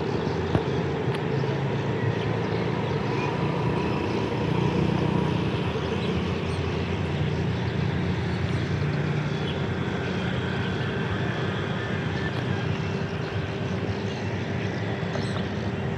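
A train running, giving a steady mechanical noise with a constant hum that barely changes in level.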